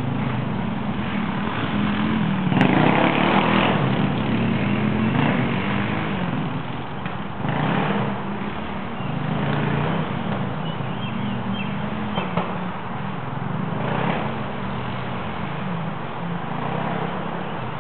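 Dirt bike engine running and revving through a lap, its pitch rising and falling, with a louder surge about two and a half seconds in.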